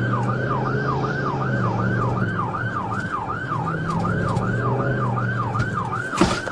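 Police car siren in yelp mode, a fast up-and-down wail about four times a second, over a steady low vehicle hum. A short loud burst of noise cuts in near the end.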